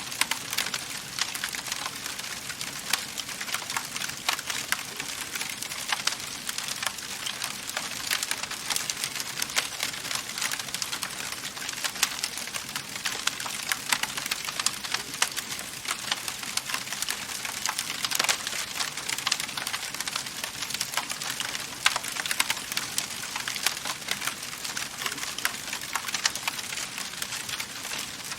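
Wood fire crackling in a fireplace: a dense, irregular stream of small sharp pops and snaps over a steady hiss of burning.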